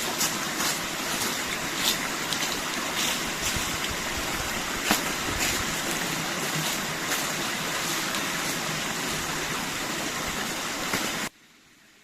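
Small forest stream running: a steady rush of water with scattered short clicks and splashes. It cuts off abruptly near the end, leaving only a faint hiss.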